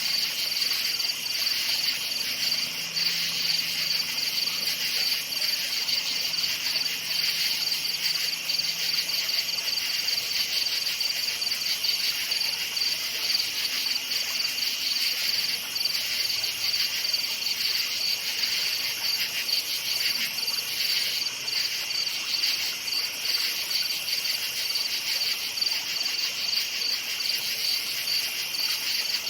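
Crickets chirping in a steady chorus of fast, high-pitched pulses that never lets up.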